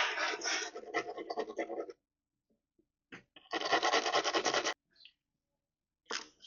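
Light stainless steel wire brush scrubbed by hand over scuffed damage on a truck, in two spells of rapid back-and-forth strokes with a pause between and a single short stroke near the end.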